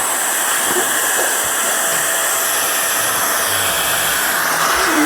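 Battery-powered blower running steadily, a constant rush of air as it is blown into a lump of slime to inflate a bubble.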